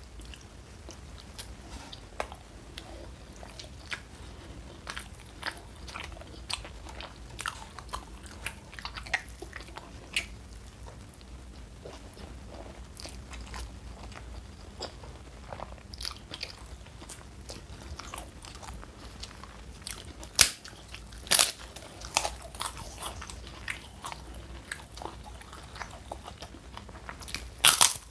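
Close-up eating sounds: steady chewing and small wet clicks of a mouth working food, with a few much louder sharp crunches a little past the middle and again near the end.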